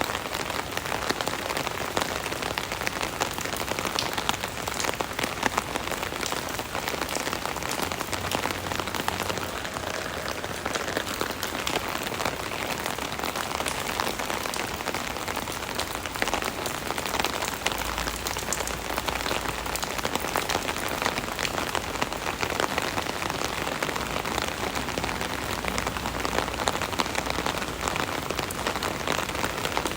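Steady rain pattering on an umbrella canopy, a dense even hiss of many small drop taps.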